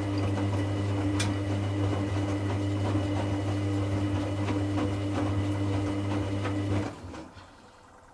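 Hoover Classica 1100 AC164 washing machine's drain pump running with a steady low hum and a few small clicks, then switching off suddenly about seven seconds in.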